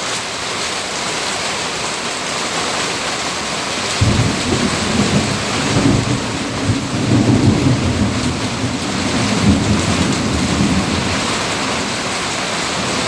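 Heavy rain pouring steadily. About four seconds in, thunder breaks out with a sudden low rumble that rolls on for several seconds and then fades back into the rain.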